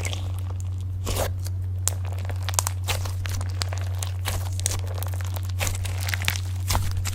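Slime being squeezed and kneaded by hand, giving many small irregular crackles and pops, over a steady low hum.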